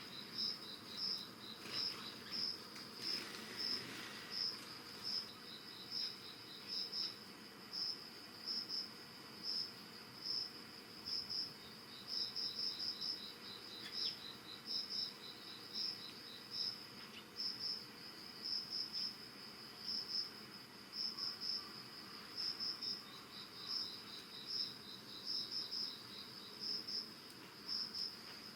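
Early-autumn crickets chirping: one insect gives high chirps about twice a second, some in quick pairs and triples, while another adds short, rapid trills of fast ticking pulses that start and stop several times.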